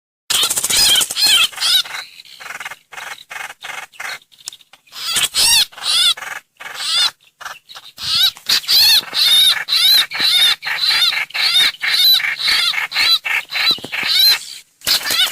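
White-eye (trao trảo) song used as a bird-lure recording: fast, twittering runs of high, rising-and-falling chirps, broken by short pauses, getting denser from about eight seconds in.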